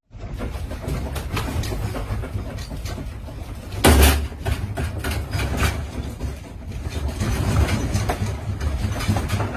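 Low steady rumble with continual rattling and clattering, as a building and its contents shake in an earthquake, with one loud crash about four seconds in.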